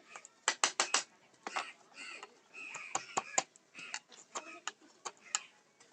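Sharp taps of a mallet striking a carving chisel into teak wood: a quick run of about four strikes near the start, then irregular single taps.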